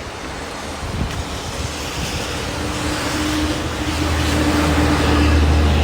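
Steady rush of rain and flowing river water, with a motor vehicle growing louder over it from about halfway in, its low engine hum strongest near the end.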